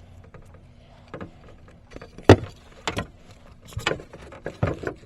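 Handling noise: a run of sharp knocks, clunks and scrapes, about seven in all, the loudest a little over two seconds in.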